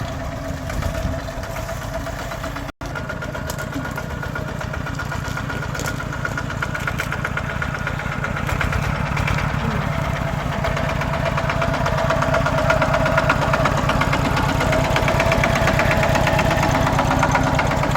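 Tractor engine running with a steady, even chug. It gets gradually louder through the second half.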